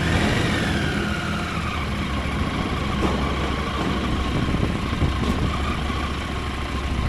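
Motorcycle engine running on the road under a dense low rumble, with a high whine that falls in pitch over the first two seconds and then holds steady.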